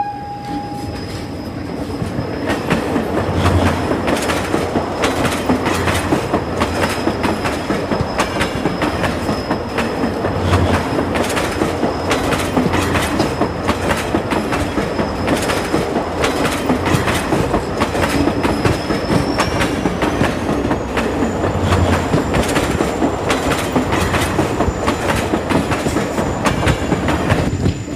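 A moving train's wheels running over the track, a continuous rattling clatter with dense clicks from the rail joints. A faint high whine runs underneath and rises in pitch about two-thirds of the way through.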